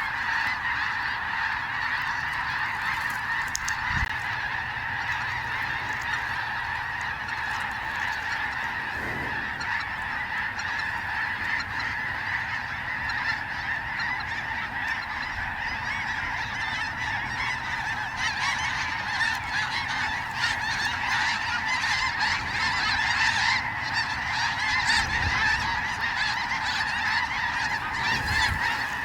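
Many snow geese calling at once, a dense, unbroken chorus of honking that grows louder later on.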